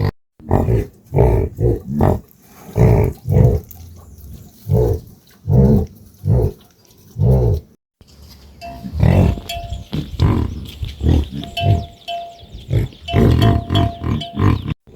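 Farm animals calling in a run of short, loud grunts, one every half second to a second.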